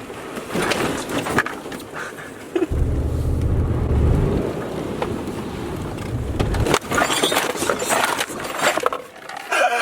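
Truck engine rumbling hard for about four seconds while off-road, then cutting off abruptly. A sharp knock follows, then a scatter of knocks and rattles.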